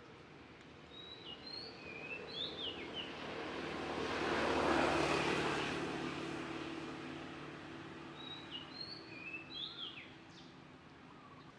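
Small birds chirping in short, sharp calls, in two clusters about a second in and near the end, while an engine passes by, growing louder to a peak in the middle and then fading away.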